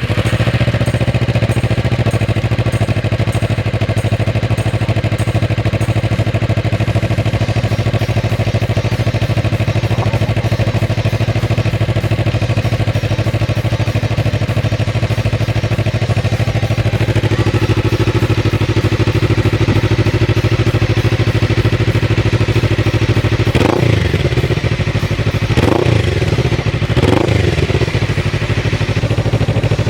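Suzuki GSX250R's 248 cc parallel-twin engine idling steadily through an aftermarket slip-on silencer, with a deep low note. Near the end the throttle is blipped four times in quick succession, each rev rising and falling back to idle.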